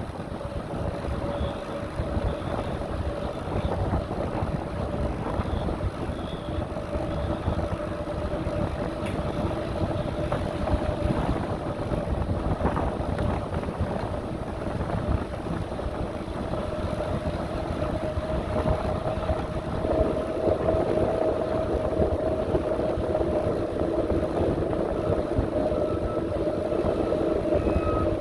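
Bicycle riding noise: tyres rolling on the path and wind on the microphone, with a steady mid-pitched whine that grows a little stronger past the middle.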